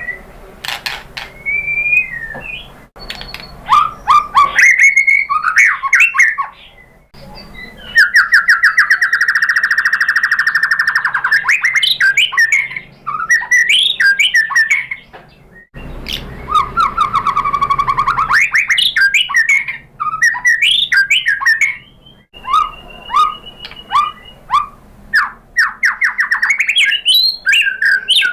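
White-rumped shama (murai batu) in full song: loud whistled phrases and chattering notes, with two long, fast trills about eight and sixteen seconds in.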